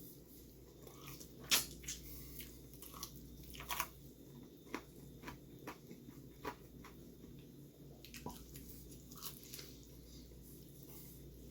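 A person biting and chewing Korean fried chicken coated in spicy sauce, with irregular sharp mouth clicks, over a steady low hum.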